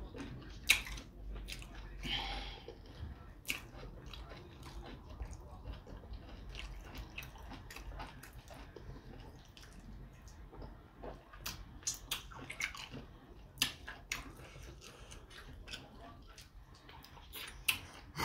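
A person chewing soft fufu with slimy ogbono soup, eaten by hand: wet mouth sounds with scattered sharp lip smacks and clicks.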